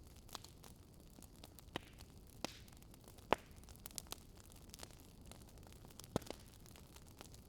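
Wood fire crackling in a fireplace: irregular sharp pops and snaps over a low, steady hiss, with the loudest pop a little over three seconds in and another strong one about six seconds in.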